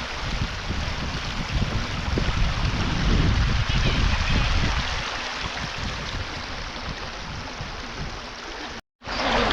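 Shallow stream water rushing and gurgling steadily, with some uneven low rumble underneath; the sound cuts out for a moment near the end.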